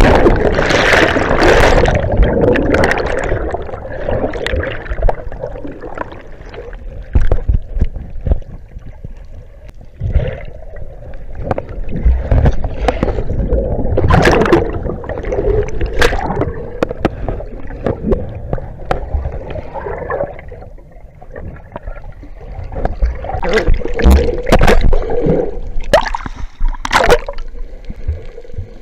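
Sea water gurgling and sloshing around a camera held in and out of the water while snorkelling, with irregular splashes and thuds.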